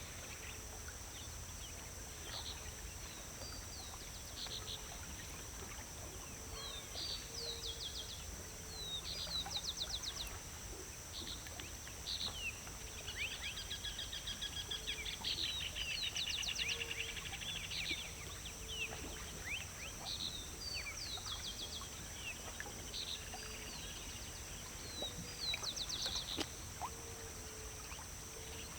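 Small birds chirping and singing with many short calls and trills, busiest around the middle. A steady high-pitched whine runs behind them, and faint low notes repeat.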